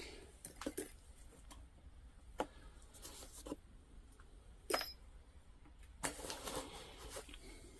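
Small pieces of metal jewelry clinking and rattling against each other as they are picked through by hand: scattered light clicks, a sharper ringing clink a little before the five-second mark, and a longer jumble of rattling near the end.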